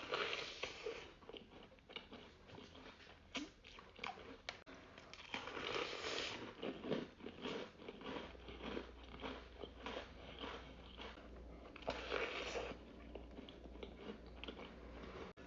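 Biting into and chewing a large cookie close to the microphone. Louder bites come right at the start, about six seconds in and about twelve seconds in, with quieter chewing between them.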